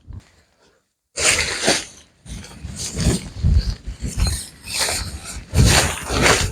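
Irregular rustling and thudding from a tarp and its poles being handled while it is pitched, starting about a second in after a brief silence.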